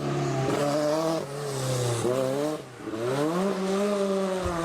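Rally car engine revving hard at full throttle, its pitch climbing, falling back twice and climbing again.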